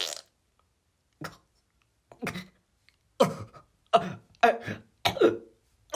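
A voice-acted cartoon character coughing and choking in about six short fits, spaced roughly a second apart and coming closer together towards the end. It acts out an allergic reaction to blueberry pie.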